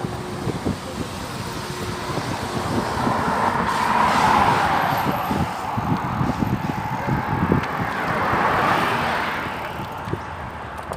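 Road traffic: two cars pass by, each swelling up and fading away, the first about four seconds in and the second about eight seconds in.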